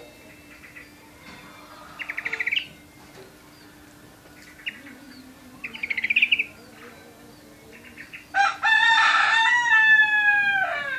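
Yorkshire canary, in its stress-recovery stage after going off its song, giving two short rapid trills. Near the end a rooster crows loudly for about two and a half seconds, its pitch falling slightly.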